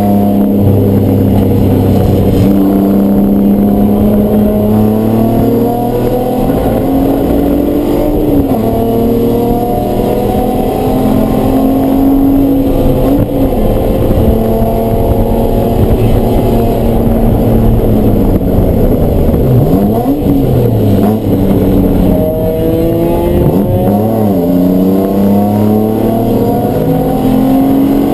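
Race car engine running hard at high revs, its pitch climbing and falling over and over, with a few sharp drops in pitch in the second half.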